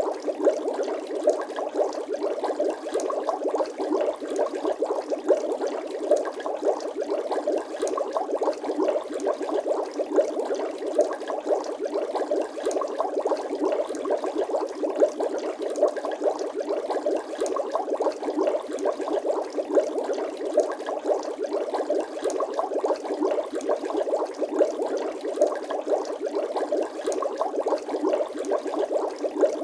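Continuous bubbling sound effect: a dense, unbroken stream of small rapid bubble pops, like water bubbling, holding steady throughout.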